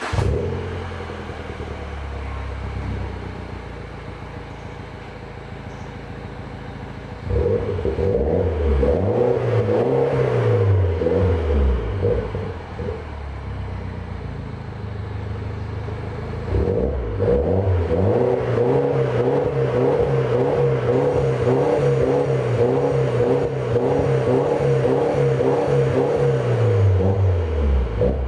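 BMW Mini R56 engine heard through an exhaust with its centre section straight-piped. It idles, is revved up and let back down, then revved again and held at higher revs for several seconds before dropping back to idle near the end.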